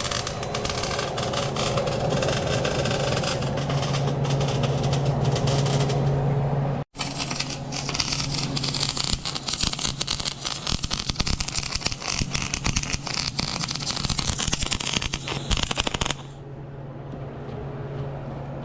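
Electric arc welding: a dense, steady crackle over a low hum. It breaks off for an instant about seven seconds in, then stops a couple of seconds before the end, leaving only the quieter hum.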